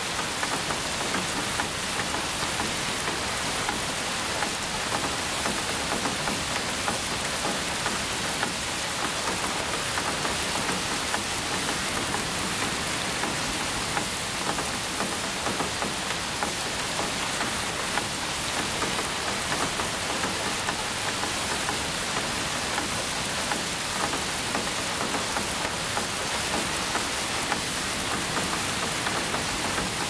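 Steady rainfall: an even hiss of rain flecked with countless small drop ticks.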